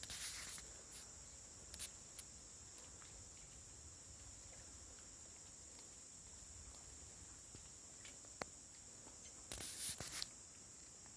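Faint, steady high-pitched drone of insects, broken by scattered sharp clicks and a short cluster of louder clicks about ten seconds in.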